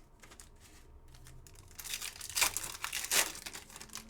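Trading-card pack wrapper being torn open and crinkled, in two louder rips about two and a half and three seconds in.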